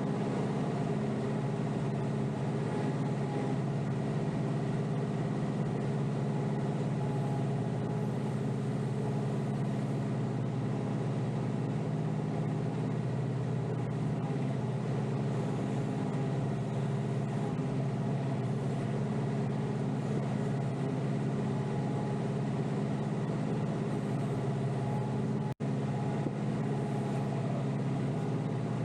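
Kioti DK5320SE tractor's diesel engine running steadily, heard from inside the cab. The sound drops out for an instant near the end.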